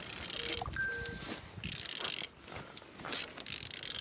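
Engine being turned over by hand, its rotating parts making a rasping whir in three pushes, each about half a second long. The engine turns freely.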